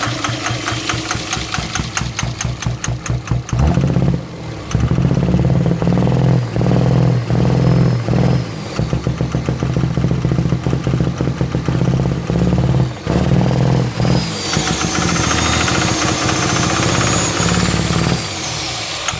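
24-valve Cummins diesel engine running with a fast, regular knock, then louder from about four seconds in, with several brief dips in its sound, and a high whine over it later on. The owner suspects bad injectors behind a misfire.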